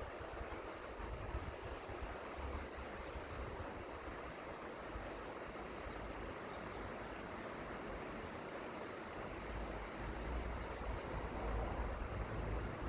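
River water rushing steadily, with wind buffeting the microphone in low gusts and a few faint high chirps.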